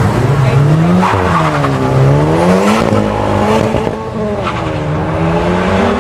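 High-performance sports car engine accelerating hard. Its pitch climbs, then drops sharply with a gear change about a second in and again around three seconds in, before climbing again.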